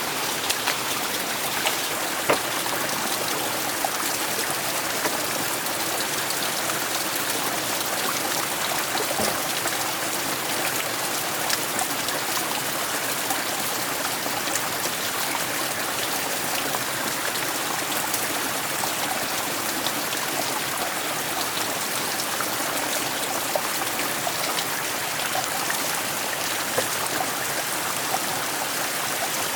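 Steady water noise: an even rushing hiss with many small scattered ticks and drips.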